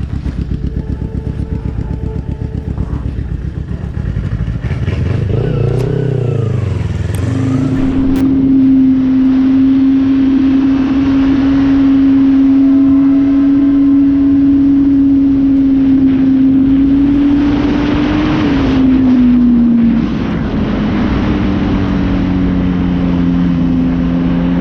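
Motorcycle engine running. At first a low throbbing, then from about a third of the way in a steady engine note held at constant revs. Near the end the note drops a little and a second, lower note joins it.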